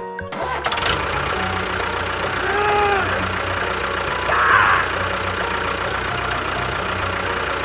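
An engine running steadily with an even low rhythm, with two short rising-and-falling tones about two and a half and four and a half seconds in.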